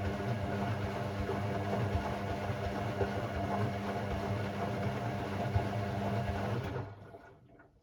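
Hoover Sportswear 1300 washing machine running with a steady, even hum, then stopping about seven seconds in.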